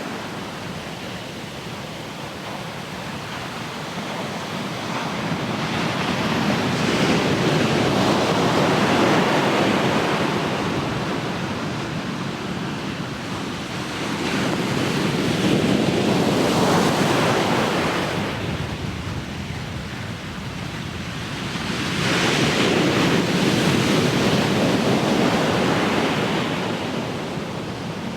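Ocean waves breaking and washing up on the shore, the surf swelling and ebbing in three slow surges, with some wind on the microphone.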